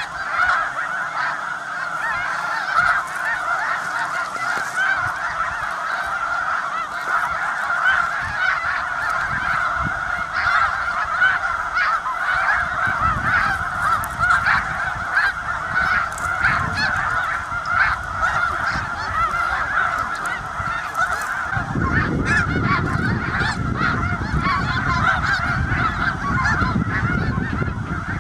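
A large flock of geese honking all at once, a dense, unbroken chorus of overlapping calls. A low rumble comes in about halfway and grows heavier near the end.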